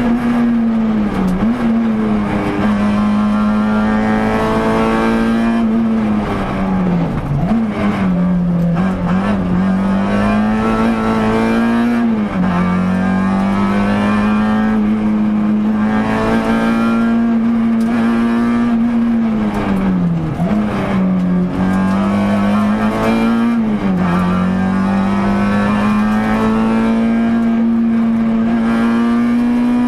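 Peugeot 106 rally car's engine heard from inside the cabin, running hard at a mostly steady high pitch. About five times the pitch dips and climbs back as the car slows and picks up speed between corners on a rally stage.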